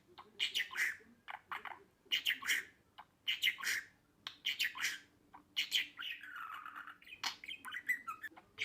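Budgerigar chattering: quick clusters of sharp chirps and squawks, with a longer wavering warble about six seconds in.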